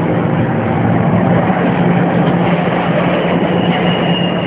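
Diesel locomotive running steadily under way, heard from inside the cab: a constant low engine drone with rail and running noise over it, and a faint high whine near the end.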